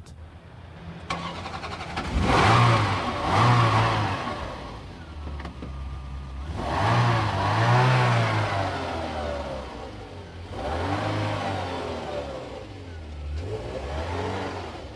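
Ferrari Mondial Cabriolet's V8 engine being revved in four swells, each rising and falling back, over a steady idle while the car manoeuvres at low speed.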